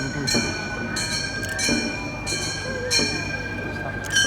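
Gion-bayashi festival music: small brass kane gongs struck in a steady beat, about three strikes every two seconds, each ringing on.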